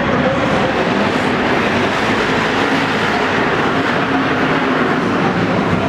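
Stock car engines racing, a loud, steady, dense din with engine pitches shifting underneath.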